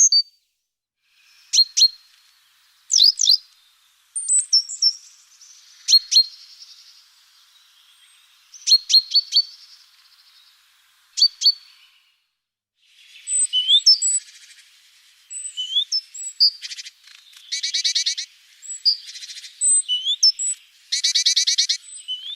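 Small garden songbirds calling: scattered sharp, high chips and short call phrases, becoming busier in the second half, with two buzzy, rapidly pulsing churring trills.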